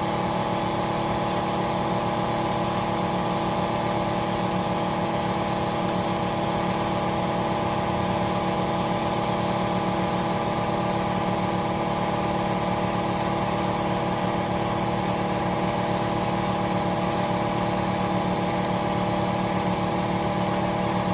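Steady mechanical hum of a running motor, even in pitch and loudness throughout, with no starts, stops or changes under load.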